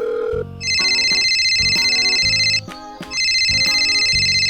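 Telephone ringing with a trilling electronic ring: two rings of about two seconds each, half a second apart, over light background music. A steady dial tone cuts off just before the first ring.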